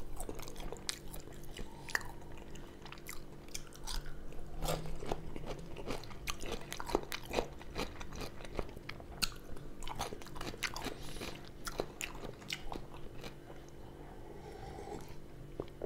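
Close-miked mouth sounds of eating: crunching and chewing of fried potato wedges and fresh cucumber, with many small wet clicks. Near the end, a drink taken from a small bottle.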